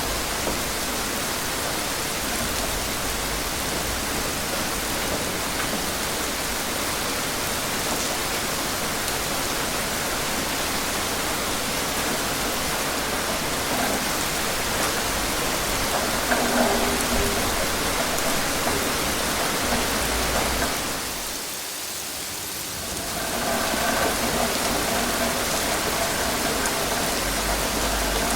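Steady rain falling, an even hiss. About three-quarters of the way through it briefly drops in level for a second or two, then comes back, with a faint steady hum joining it near the end.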